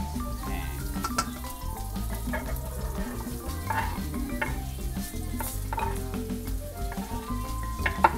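Diced onion and red chilli sizzling as they fry in oil in a nonstick wok, stirred and pushed about with a spatula, with small scraping clicks and one sharp knock just before the end.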